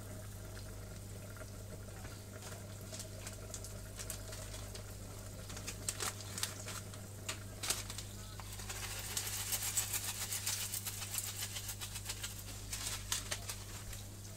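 Chicken skin frying in its rendered fat in a frying pan: a sizzle with scattered sharp pops and crackles. About two-thirds of the way through, the sizzle turns louder as chopped garlic goes into the hot fat, over a steady low hum.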